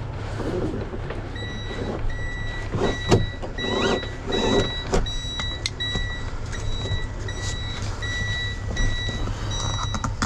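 Freightliner M2 cab warning chime beeping over and over, a run of high beeps that starts about a second and a half in: the alarm for the driver's door being open while the parking brake is not set. A few sharp knocks sound over a steady low rumble.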